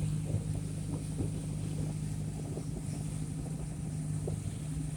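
Motorboat engine running at a steady cruising speed, a continuous low hum heard from aboard the boat.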